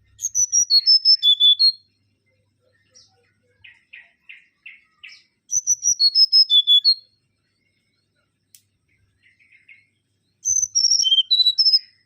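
Mangrove whistler singing: three loud phrases of about eight clear whistled notes each, mostly stepping down in pitch, spaced about four to five seconds apart. Softer, lower, quick notes fall between the phrases.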